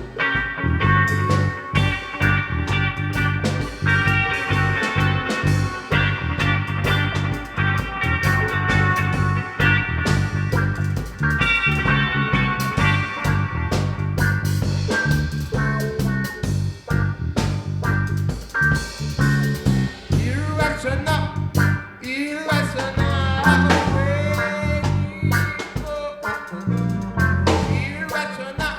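A band playing a reggae rock song with electric guitar, bass and drums. About twenty seconds in, a voice or a bending lead line joins the steady groove.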